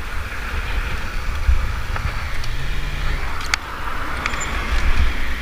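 A car driving past, its engine and tyre noise over a steady wind rumble on the microphone.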